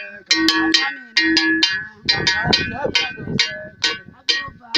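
A metal bell struck in a repeating rhythm, about three or four ringing strikes a second.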